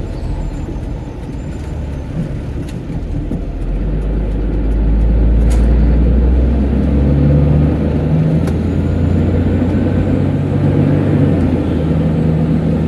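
Car driving on a wet, slushy road, heard from inside the cabin: a steady low rumble of tyres and engine that grows louder about four seconds in.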